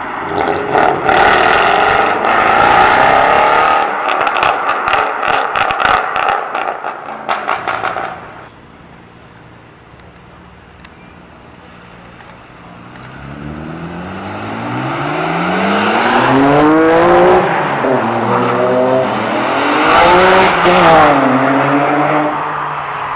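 A car's engine revving hard as it pulls away, with a fast run of exhaust crackles and pops before it fades. A few seconds later another car accelerates up through the gears, its engine pitch climbing and dropping twice at the upshifts as it goes by.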